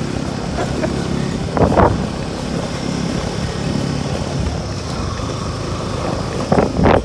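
A vehicle's engine and road noise, running steadily, with a short pitched sound, like a voice, just under two seconds in.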